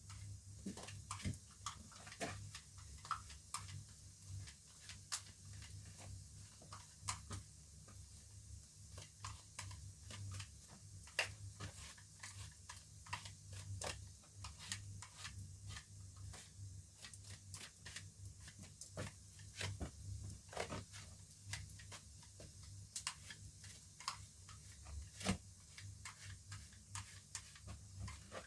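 Wood fire crackling in a newly built open fireplace during its first firing: irregular snaps and pops, several a second, over a steady low hum.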